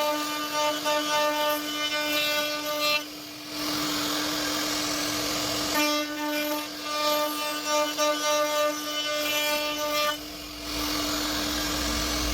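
CNC router spindle running with a steady high whine. Twice it rises into a louder, many-toned whine for about four seconds at a time as the bit cuts through wood, with a hissing stretch between the cuts. A low rumble joins near the end.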